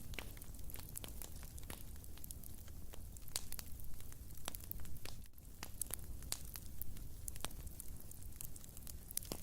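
Wood fire burning in a fireplace, crackling with many sharp irregular pops over a low rumble of flames.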